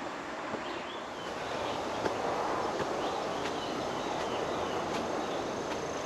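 Footsteps walking at an even pace, about one step every 0.7 seconds, over a steady wash of outdoor background noise, with a few faint bird chirps.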